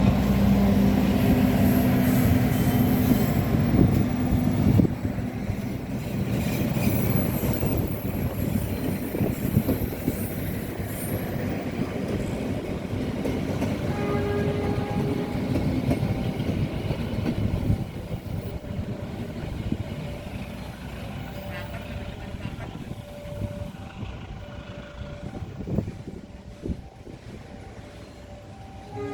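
Diesel locomotive and its coaches pulling out: a loud engine rumble with steady low tones, then rolling wheel clatter. Everything fades gradually as the train moves away.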